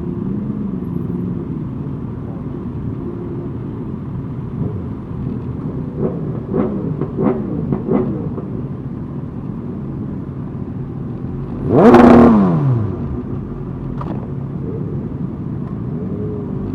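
Motorcycle engines running in traffic, with several quick throttle blips about six to eight seconds in. About twelve seconds in comes a very loud rev whose pitch falls over about a second.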